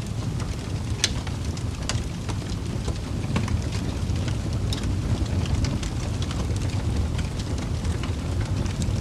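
Wood fire burning in a fireplace: a steady low rumble of flames with scattered sharp crackles and pops, the loudest about a second in.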